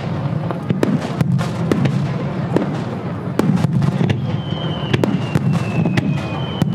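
Fireworks display: a rapid run of bangs and crackles over a continuous low rumble. In the second half a thin, high whistle glides slowly down in pitch.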